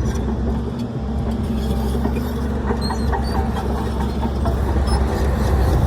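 Heavy diesel earthmoving machinery running steadily: a low engine drone with frequent metallic clicks and rattles, and a few faint high squeaks about three seconds in.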